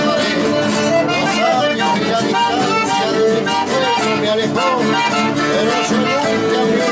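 Chamamé music led by an accordion, playing steadily.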